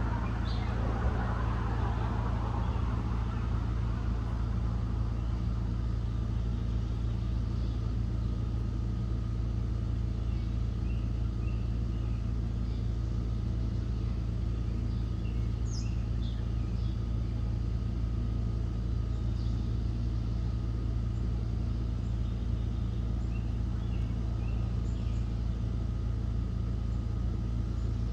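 Steady low mechanical hum and rumble, with a few faint, short bird chirps now and then, about three times.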